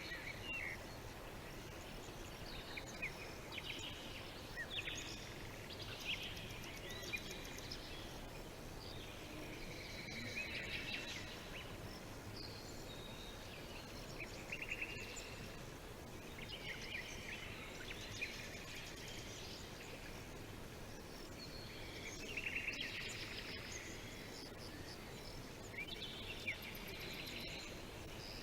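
Songbirds chirping and trilling in repeated short bursts every few seconds, over a steady hiss of outdoor ambience.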